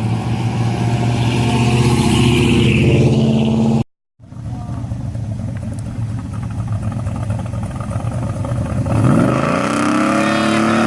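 Car engine running loudly, then revving. There is a sudden break about four seconds in, and the pitch rises and falls again near the end.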